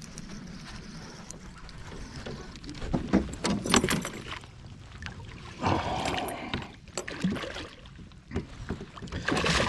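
A hooked bass being fought and landed from a kayak: irregular splashes and knocks against the boat, with the strongest ones about three to four seconds in, again around six seconds, and near the end.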